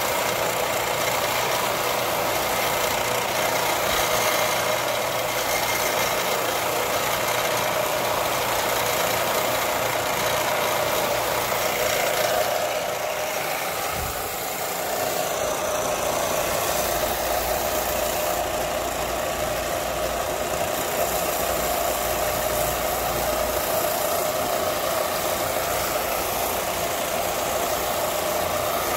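Electric grinder running steadily as the knife is ground, a continuous dense whirring hiss whose tone shifts about halfway through.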